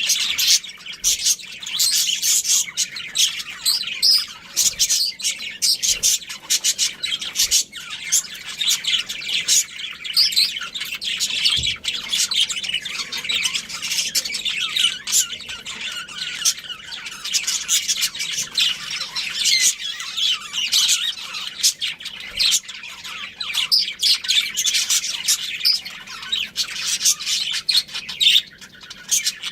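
Budgerigars chattering, a continuous stream of quick high chirps and squawks.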